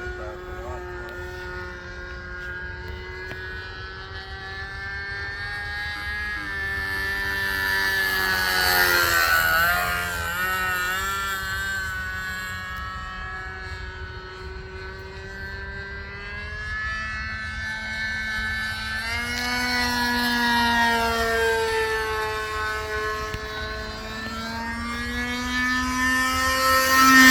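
Engine of a radio-control model biplane buzzing in flight, its pitch rising and falling with throttle and passes. It gets louder on close passes about nine seconds in, around twenty seconds, and at the very end, with the pitch dropping as it goes by.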